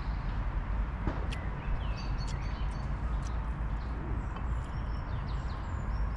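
Birds calling with short, scattered chirps over a steady low rumble of outdoor background noise.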